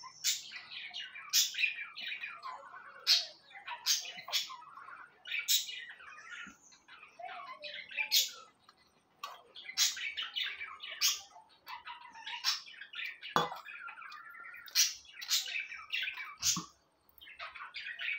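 Birds chirping and squawking close by, a busy stream of short calls one after another with frequent sharp squawks.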